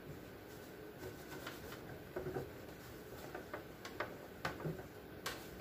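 Scattered light clicks and taps of fridge items, bottles, jars and plastic containers, being picked up and set down, several a second from about a second in.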